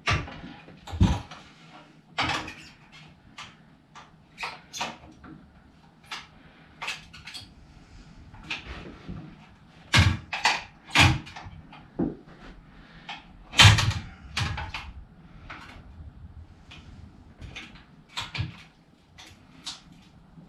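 Irregular clunks, knocks and clicks of metal motorcycle parts being handled and fitted, as the front fender is worked into place on the forks. The loudest knocks come about halfway through and again a few seconds later.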